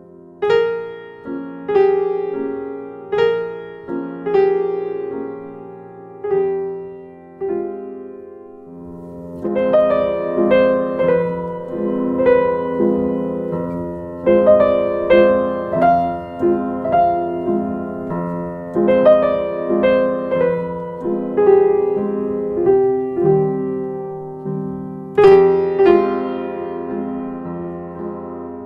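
Background music: a slow, gentle piano piece of single struck notes and chords, each note ringing and fading, growing fuller with sustained chords about nine seconds in.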